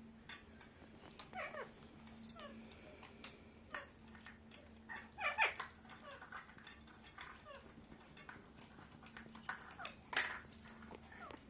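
Pet parakeets calling and chattering in short, scattered notes, many of them quick downward-sliding squeaks, with two louder calls about five and ten seconds in.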